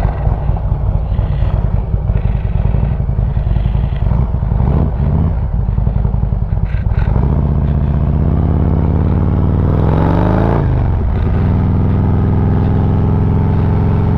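Harley-Davidson Road Glide Special's V-twin engine rumbling at low speed, then settling into a steady note halfway through. Its pitch rises as the bike accelerates about nine to ten seconds in, then it holds steady.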